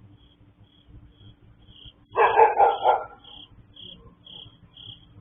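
A dog barks about three times in quick succession about two seconds in. A faint, high chirp repeats about twice a second throughout.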